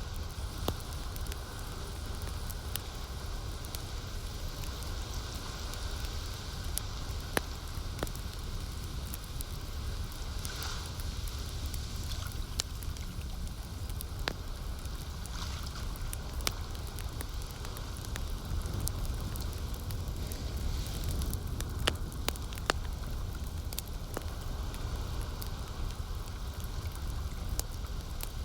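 Campfire crackling, with irregular sharp pops and snaps over a steady low rush, and lake water lapping beneath it.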